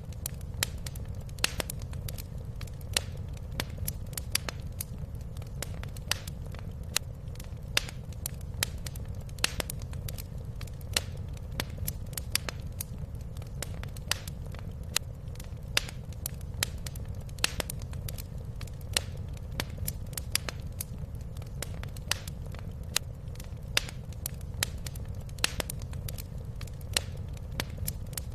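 Wood fire crackling in a fireplace: sharp, irregular pops, several a second, over a steady low rumble.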